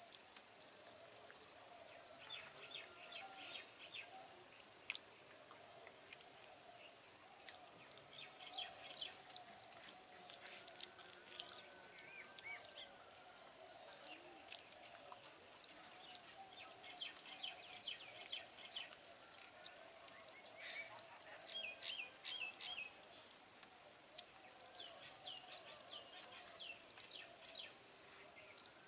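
Faint birds chirping and chattering in short bursts every few seconds, with a few brief whistled notes.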